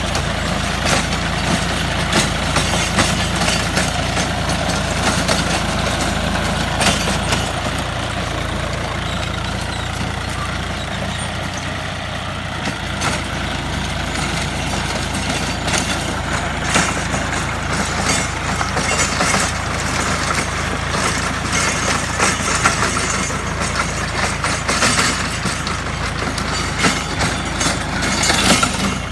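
Tractor engine running steadily while driving a rotary tiller through the soil, with irregular short knocks and clatter from the tiller working.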